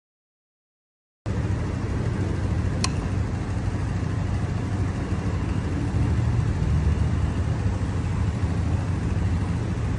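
Steady deep rumble of a vehicle running, starting abruptly about a second in after dead silence, with a single sharp tick about three seconds in.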